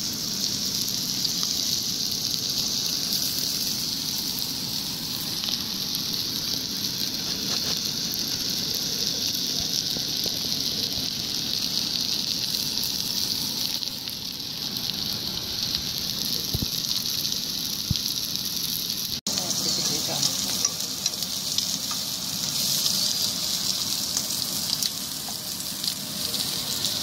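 Whole shell-on shrimp sizzling in butter in a frying pan, a steady high hiss of frying, with one momentary break about two-thirds of the way through.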